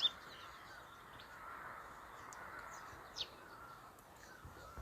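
Faint outdoor ambience with distant birds calling: a few short, high chirps over a low, wavering background.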